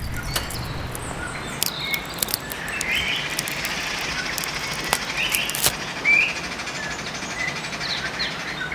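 Outdoor forest ambience: scattered short bird chirps over a steady background hiss, with a few sharp clicks.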